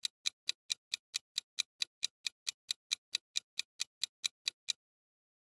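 Steady clock-like ticking of a countdown timer, about four to five sharp ticks a second, stopping shortly before the end.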